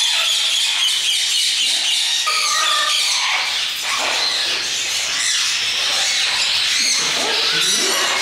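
Many caged birds, parrots among them, chattering and squawking at once: a dense, unbroken mix of shrill chirps and rising and falling whistles.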